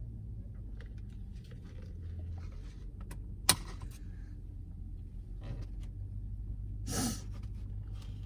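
Low steady hum of a car interior with scattered small handling clicks: one sharp click about three and a half seconds in and a brief rustle near seven seconds.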